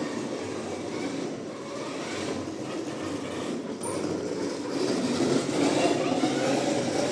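Engine oil pouring from a bottle through a funnel into a motorcycle's crankcase, a steady gurgling that grows louder about five seconds in.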